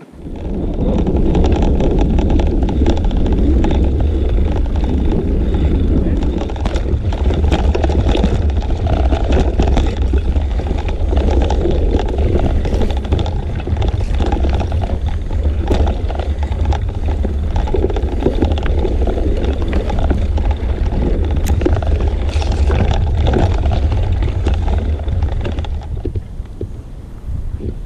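Wind buffeting a GoPro's microphone while riding a bicycle: a loud, steady rumble that sets in suddenly and eases slightly near the end.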